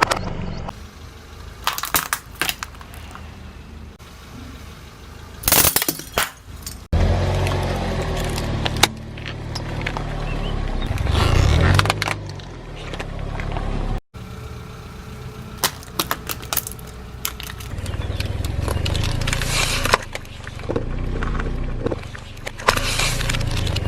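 A car's tyres rolling slowly over assorted objects and crushing them: repeated sharp cracks and snaps over a low engine and tyre rumble, in several cut-together takes.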